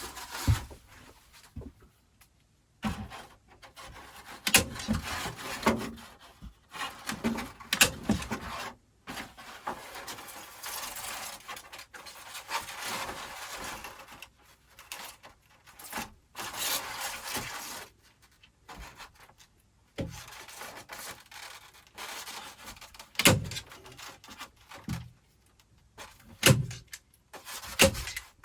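Styrofoam rafter vent baffle rubbing and scraping against the wooden joists in stretches of a few seconds as it is worked into place, with a few sharp knocks between.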